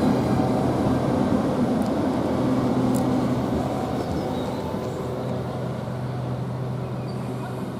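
Southeastern Class 395 high-speed electric multiple unit standing at the platform, giving off a steady electrical and mechanical hum that slowly grows quieter.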